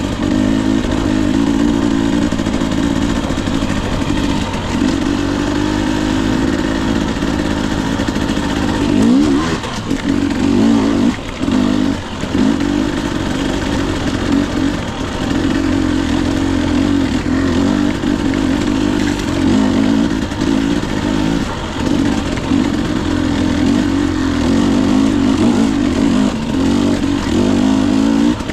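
Husqvarna TE 250i single-cylinder two-stroke dirt bike engine running under throttle, its pitch rising and falling as the rider revs on and off, with brief drops around nine and twelve seconds in.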